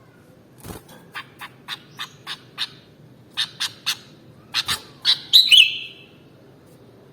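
Sooty-headed bulbul (kutilang) calling: a run of short, sharp chirps at about four a second, then a louder, fuller warbled phrase about five seconds in.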